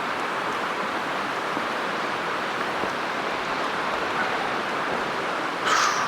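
Steady rushing of a steep mountain creek running down in one long cascade, very loud. A brief scuff near the end.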